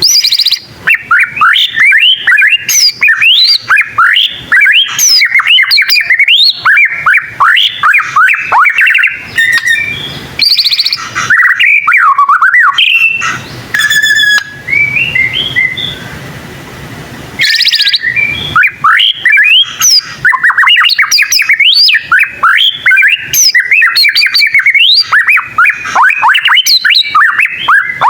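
White-rumped shama (murai batu) singing loudly: a fast, unbroken run of sharp rising whistles and clicking notes, which thins out to a few scattered notes for a couple of seconds around the middle.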